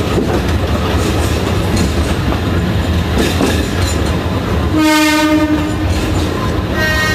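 Alishan Forest Railway train running on the narrow-gauge track with a steady rumble and wheel clatter; about five seconds in its horn sounds for about a second, and a second horn note at a different pitch starts near the end.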